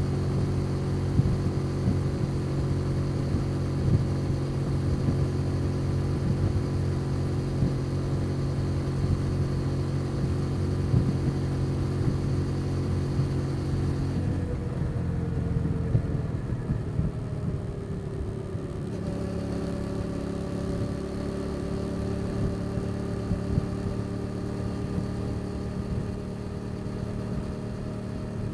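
Custom motorcycle's engine running while under way, its note steady at first. About halfway through it drops off for a few seconds, then it picks up again and climbs slowly.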